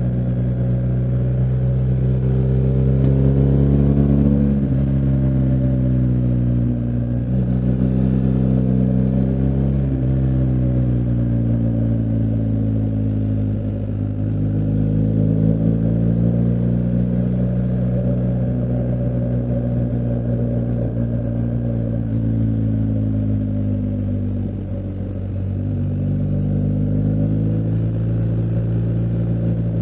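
BMW R1250GS Adventure's boxer twin engine under way, revs climbing and falling through the gears. It has several sharp pitch drops in the first ten seconds, like upshifts, then a long easing off and a rise again near the end.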